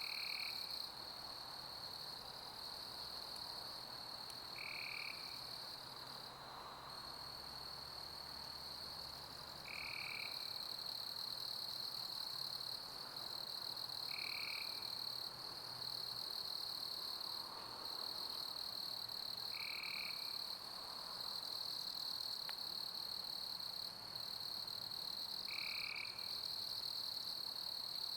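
Summer crickets chirping in a continuous high chorus over a soft, even hiss, with a short lower call repeating about every five seconds.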